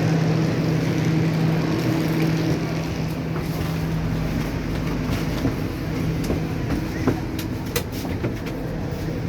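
Steady hum and rumble inside a passenger train carriage, with a few sharp clicks and knocks in the second half.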